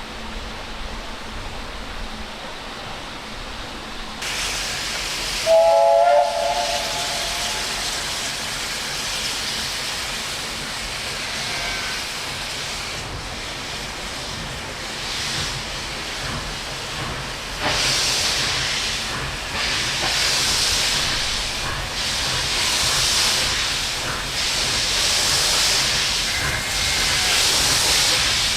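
Narrow-gauge steam locomotive: steam hissing, with a short whistle blast of several tones together about six seconds in. From about eighteen seconds in the hiss grows louder and pulses in regular beats about once a second.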